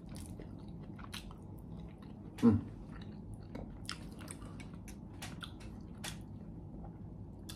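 Close-miked chewing of a person eating, with many small wet mouth clicks. One brief, louder low sound comes about two and a half seconds in.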